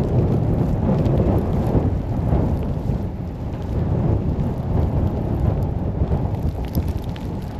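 Storm wind buffeting the microphone: a loud, rumbling gusty noise that rises and falls without a break.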